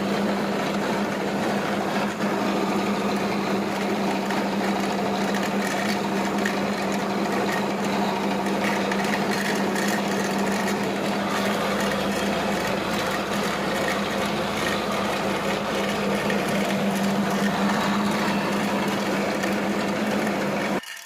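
A small motor running steadily with a constant hum and a rattling, whirring noise, cutting off abruptly at the end.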